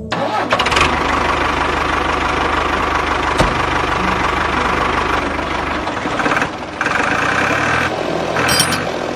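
Motor of a DIY mini tractor running steadily. Its low hum drops out about six seconds in, and the running sound dips briefly twice near the end.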